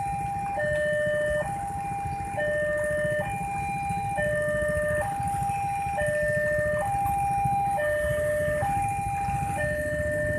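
Electronic two-tone warning alarm of a railway level crossing, sounding high and low tones of about a second each in steady alternation, over a low steady rumble.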